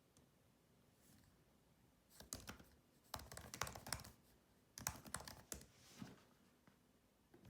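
Soft typing on a keyboard: quick runs of key clicks in three or four short bursts, starting about two seconds in and stopping about a second before the end.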